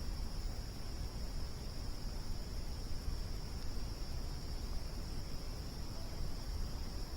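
Crickets trilling steadily and unbroken, over a constant low rumble.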